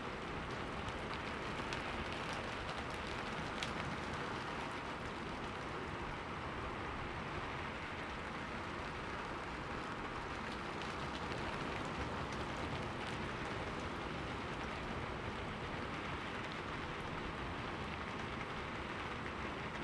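Steady rain falling on a window, an even hiss with scattered small drop ticks.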